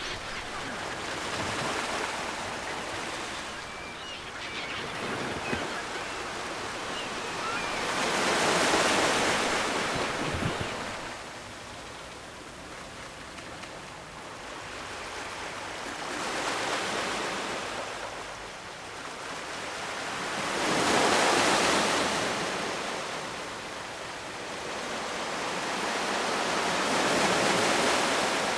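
Ocean surf breaking on a shore: waves wash in and recede in slow, uneven surges, about one every five to eight seconds, each swelling and fading over a few seconds.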